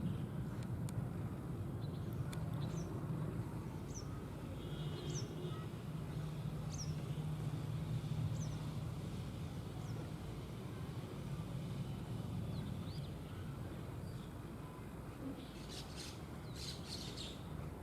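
Small bird giving short, high chirps every few seconds, with a quick run of several near the end, over a steady low rumble.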